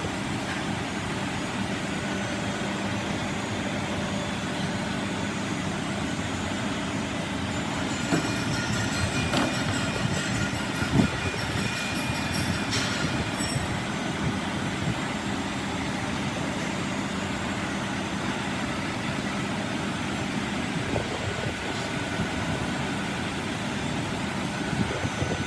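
Heavy machinery running steadily with a low hum, with a few sharp metallic clicks partway through.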